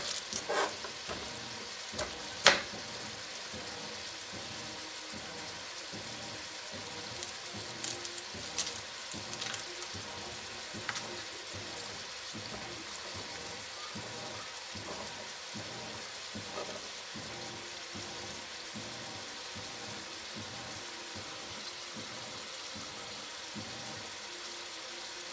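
Sliced zucchini sautéing in a stainless pot, a steady sizzling hiss. A few sharp taps sound on a plastic cutting board as an onion is cut, the loudest about two and a half seconds in.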